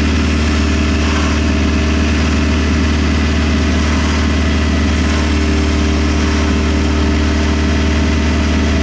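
Off-road buggy's engine idling steadily.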